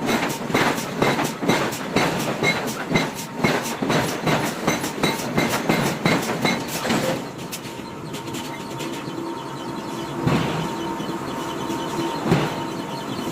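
Forging hammer striking hot iron in a rapid, even rhythm of about three blows a second, stopping about seven seconds in. After that a steady machinery hum remains, with a couple of single knocks.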